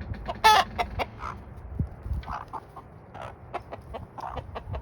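Chickens clucking and squawking as the flock squabbles over scraps of a dead mouse, with one loud, high squawk about half a second in and many short calls after it.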